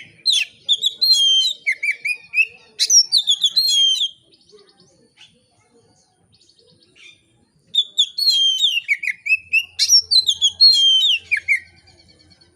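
Oriental magpie-robin (kacer) singing a loud, varied song of rapid whistled notes and slurred glides, in two bouts of about four seconds each with a pause between.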